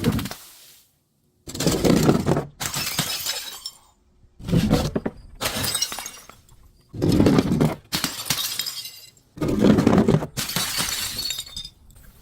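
Glass bottles smashing, four times about two and a half seconds apart: each a heavy thud followed by a spray of shattering, tinkling glass.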